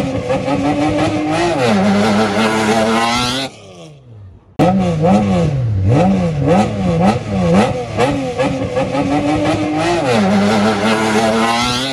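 Renault Clio rally car's engine being revved up and down over and over, about twice a second, as it waits to launch from the start line. The sound drops away abruptly about three and a half seconds in, the revs falling off quietly. A second later the revving comes back suddenly, and it drops away again near the end.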